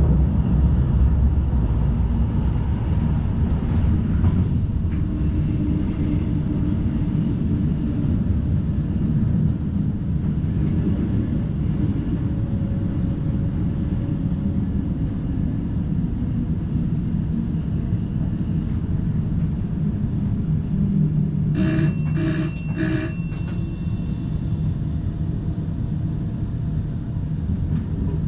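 Steady rumble of an NS DDZ double-deck intercity train running, heard from inside the driver's cab. About three-quarters of the way through, a cab alert gives three short, high beeps in quick succession.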